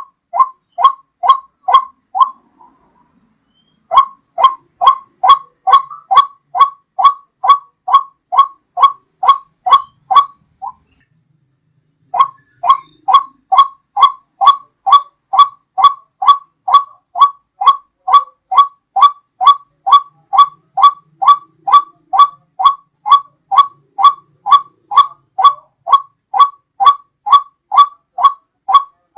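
White-breasted waterhen lure call: the same loud, clear note repeated evenly about twice a second. It comes in three runs, broken by short pauses about two seconds in and again about ten seconds in.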